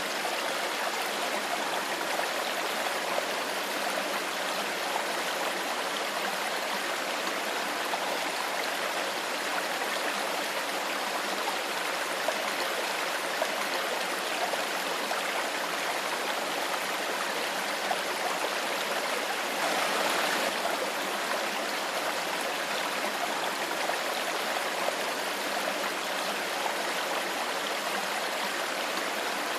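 Clear shallow stream flowing steadily over stones, with small gurgles, and a brief swell in the rush about two-thirds of the way through.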